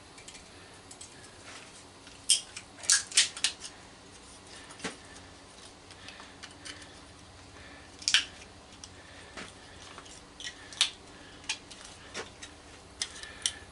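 Bolt cutters snipping aluminum cooling fins off a microwave magnetron: a series of sharp metallic snaps and clinks, a cluster of them between two and three and a half seconds in, then single ones now and then.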